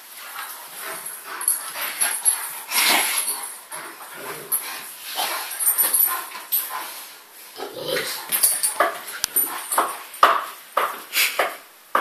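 Large dogs (Germanic bear dog, Leonberger and Great Dane) making short, irregular vocal sounds as they tussle and cuddle together.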